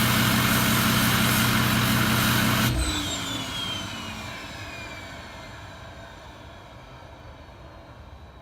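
Ford 6.0 Power Stroke V8 turbo-diesel, straight-piped through a 4-inch turbo-back exhaust, idling loudly and then shut off about three seconds in. A high whine then falls away over the next several seconds as the turbo spins down.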